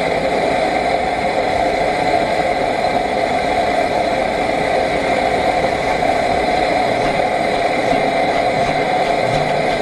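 Mietz & Weiss 4-horsepower hot-bulb diesel engine running steadily.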